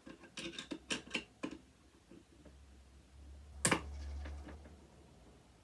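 Light clicks and ticks of a screwdriver working at screws in a metal frame, a cluster in the first second and a half and a sharper single click between three and four seconds in, with a faint low hum under it.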